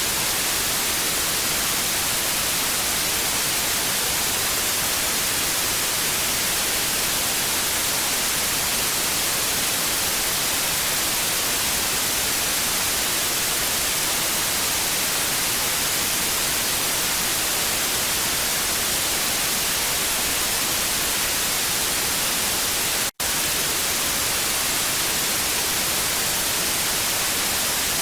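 Old-TV static hiss, an even, steady rush weighted toward the treble. It cuts out for an instant once, late on, then carries on unchanged.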